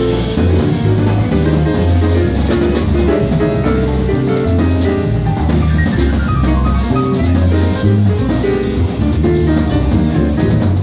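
A jazz combo playing, with a walking bass line in the low register under a drum kit and other pitched instruments.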